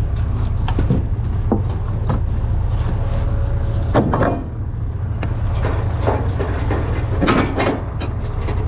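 A vehicle engine running steadily under scattered knocks, scrapes and clatter of junk debris being unloaded, with the loudest knocks about four seconds in and again near the end.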